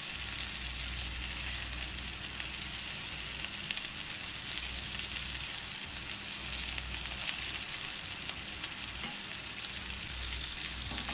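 Mackerel cutlets shallow-frying in oil in a non-stick pan, sizzling steadily with fine crackles, while a metal spatula slowly turns them over one by one with light scrapes against the pan.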